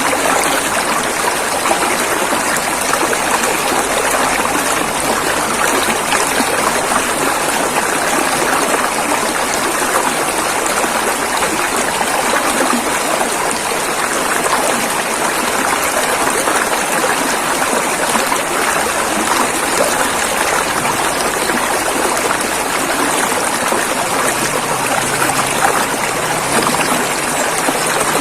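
A river's water rushing and splashing over rocks in a steady, dense wash.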